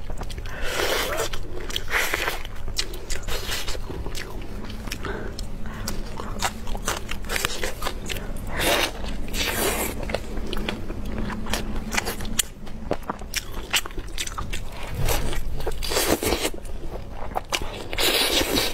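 Close-miked eating sounds of roast chicken being bitten, torn and chewed: a dense run of small crackles and crunches, with a few louder crunching bites scattered through.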